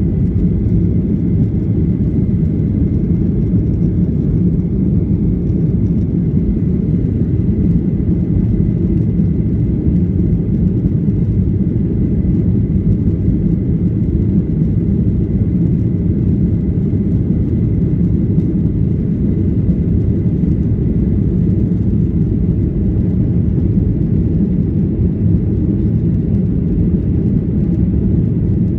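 Boeing 737-800 cabin noise: the steady, loud low rumble of its CFM56-7B turbofan engines and the airflow, heard from inside the cabin, with a faint steady high tone running through it.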